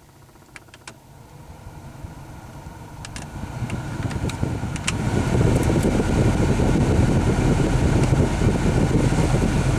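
Hyundai's HVAC blower fan spinning up, getting louder over about five seconds and then running steady. Its mouse-chewed blower wheel is no longer balanced. A few sharp clicks come in the first five seconds.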